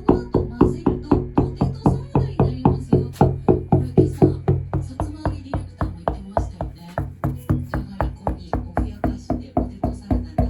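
Deck being knocked on over and over in a steady, rapid run of about three to four knocks a second, some harder than others: a tap test for delamination, where a separated patch of the deck sounds different from sound laminate.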